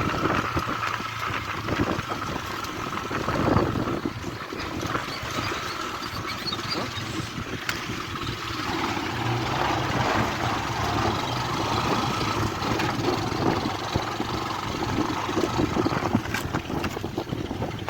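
Honda Fan 125 motorcycle's single-cylinder engine running steadily.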